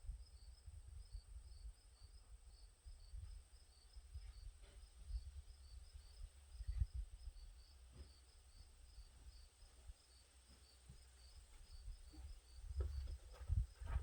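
Faint insects chirping in a rapid, even pulse with a steady high drone, over low rumble and a few light clicks.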